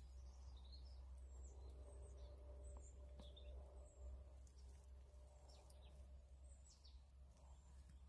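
Near-silent woodland ambience: small birds give short high chirps now and then over a low steady rumble.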